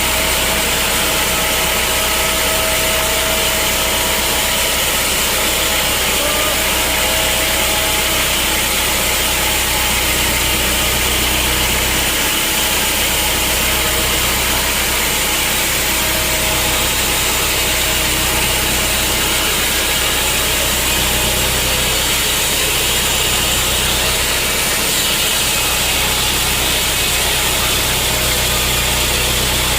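Sawmill machinery running steadily: a constant loud mechanical noise over a low hum, with a faint high tone in the first several seconds.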